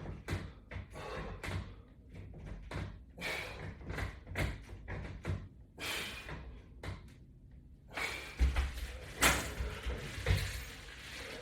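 Irregular light knocks and thumps of a latch bar rocking on its raised floor supports during push-ups, with heavier thuds and a low rumble starting about eight seconds in.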